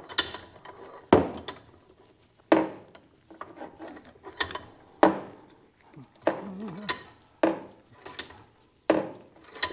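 Bench vise being cranked shut to clamp a metal bracket: a run of sharp metal clanks and clicks, roughly one a second, with light scraping between them.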